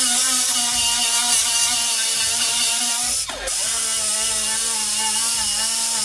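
Power cutting tool with an abrasive wheel cutting sheet metal, a steady whine over a loud hiss. It lifts off briefly about halfway through, the pitch dipping, then bites in again.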